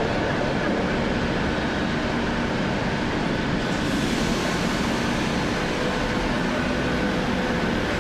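Steady city ambience: an even rumble with faint steady hums and no distinct events, the kind of sound traffic or machinery makes. It turns a little hissier about halfway through.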